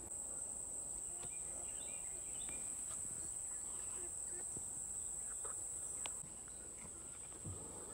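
Steady high-pitched chorus of insects, crickets or similar, with a few faint scattered clicks and rustles close by.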